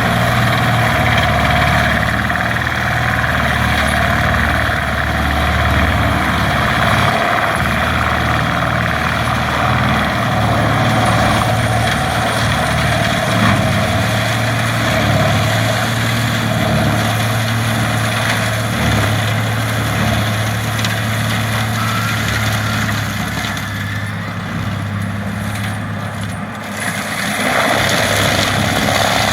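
Fendt tractor running steadily under load, powering a Seppi Multiforst forestry mulcher, with a continuous machine noise over the engine's low drone. The higher noise thins for a few seconds near the end, then comes back.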